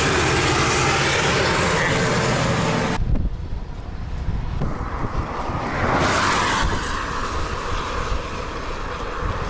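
Road traffic: a heavy vehicle's engine running loudly close by with a steady low hum, cut off abruptly about three seconds in, then a car passing by about six seconds in, its sound swelling and fading.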